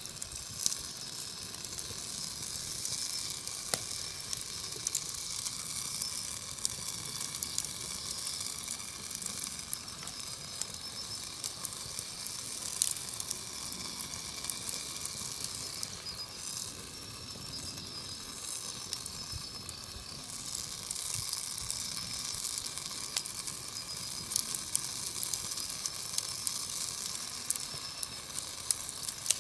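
Wood campfire burning: a steady hissing and sizzling from the burning logs, with irregular sharp crackles and pops throughout.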